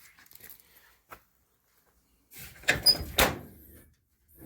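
A toolbox being opened: a few faint clicks, then a clatter about two and a half seconds in with two sharp clanks and a brief ring.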